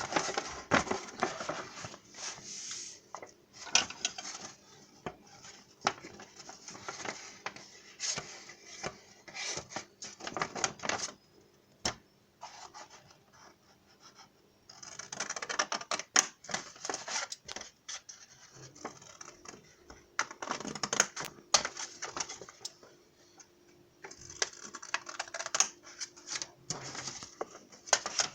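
Paper and craft materials being handled: irregular scratching, rustling and small taps in bursts, with a few short lulls.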